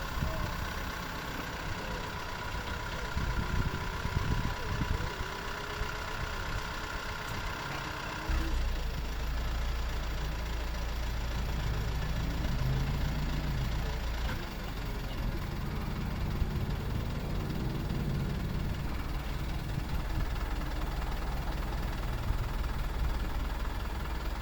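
Diesel engine of a dual-mode vehicle, the rail-and-road bus, running at idle. About eight seconds in the engine note changes and a steady deep hum takes over.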